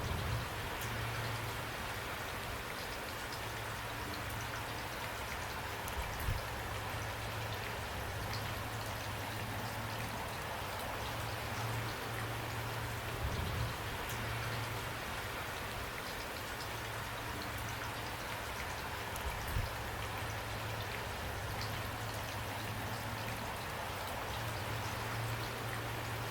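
Steady rainfall: an even hiss with scattered small drop ticks and a low steady drone underneath. A few short, louder low thuds stand out, about 6, 13 and 19 seconds in.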